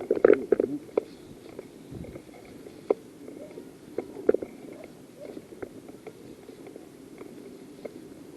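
Rustling and rubbing noise from a body-worn camera as the player moves, with scattered clicks and knocks; the loudest come just after the start and again around four seconds in.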